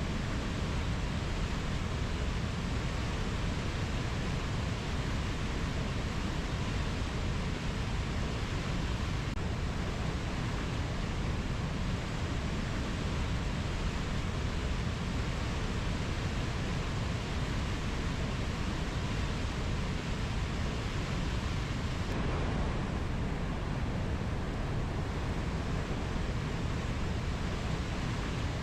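Steady rushing noise of a rainforest nature-sound ambience, even throughout and strongest in the low range, with no distinct bird or insect calls. The hiss thins slightly about three-quarters of the way through.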